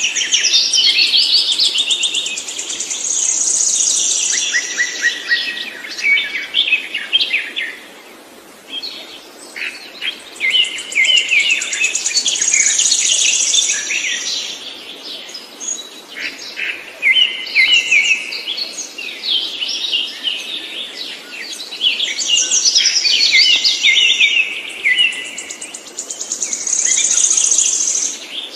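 A songbird singing long, rapid phrases of trills and warbles, about four bouts of several seconds each with short pauses between.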